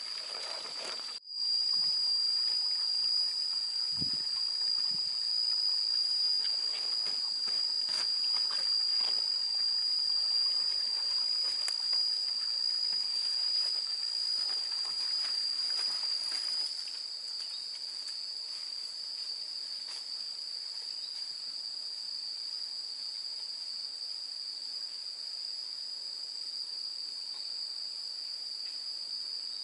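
A steady shrill insect chorus, one continuous high drone. It breaks off for an instant about a second in and comes back louder, then drops in level about 17 s in, with faint scattered clicks and rustles over it in the first half.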